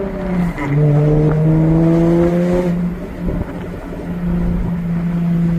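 Jaguar F-Type's supercharged V6, through an open stainless-steel exhaust with the valves removed, pulling at moderate revs while driving. The note climbs slightly for a couple of seconds, eases off about three seconds in, then settles into a steady cruise.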